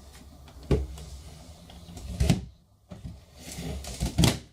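Toys being handled and knocked about: three short knocks, roughly one every one and a half to two seconds, over faint rustling and shifting.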